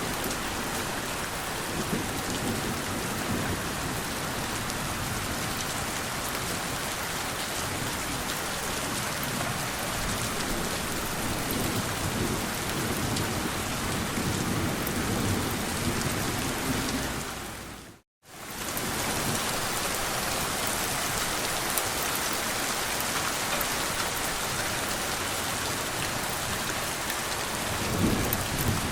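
Steady rain with gentle rolls of low thunder swelling and fading several times. About two-thirds of the way in, the sound dips briefly to silence and comes straight back.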